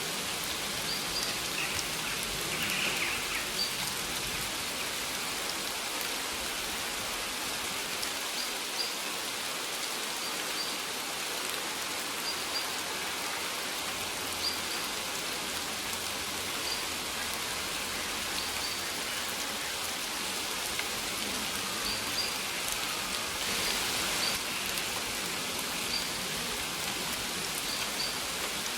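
Steady rain falling, with a small bird repeating short, high chirps every few seconds.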